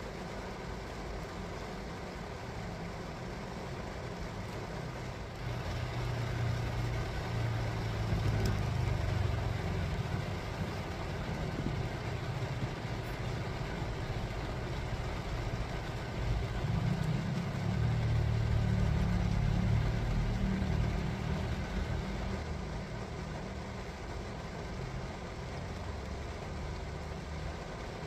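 Heavy rain on a car's windshield and roof, heard from inside the cabin, over a low vehicle rumble. The rumble grows louder twice, about five seconds in and again about sixteen seconds in, each time for about five seconds.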